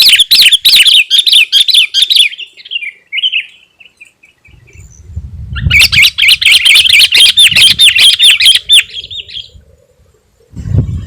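Sooty-headed bulbul singing in two bouts of rapid, loud chattering notes. The first lasts about two seconds and trails off softly. The second starts about five seconds in and lasts about four seconds, with a low rumble under it.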